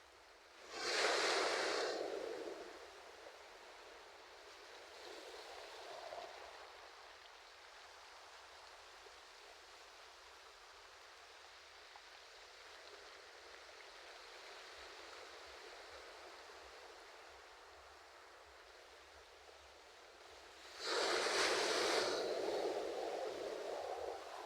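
Ocean waves washing on a shore: a steady hiss of surf, with a wave breaking loudly about a second in and another near the end, each fading over two or three seconds.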